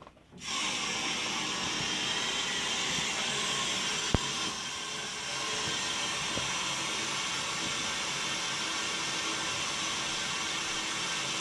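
Water rushing through the opened fill valve into a drained steam boiler as it is refilled, a steady hiss that starts suddenly about half a second in. A single sharp click sounds about four seconds in.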